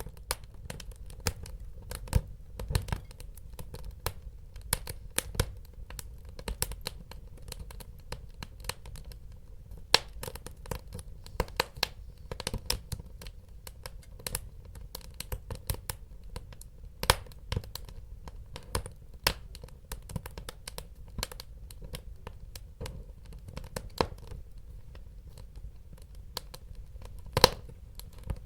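Wood fire crackling: irregular sharp pops and snaps over a steady low rumble of burning, with the loudest pops about ten seconds in and near the end.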